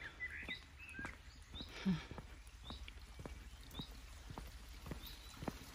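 Footsteps of boots walking steadily on a path, about two steps a second, with small birds chirping short high notes about once a second.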